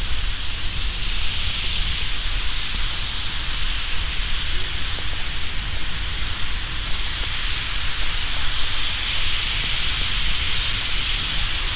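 Sleet falling, a steady hiss of ice pellets, over a low rumble of wind on the microphone.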